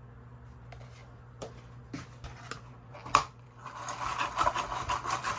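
A few separate light taps and clicks, the sharpest about three seconds in, then a couple of seconds of dense crinkling, like paper or plastic packaging being handled.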